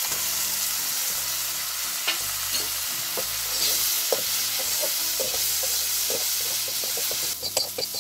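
Sliced banana stem sizzling in hot oil in a black iron kadai, with a wooden spatula scraping and clicking against the pan as it is stirred from about two seconds in.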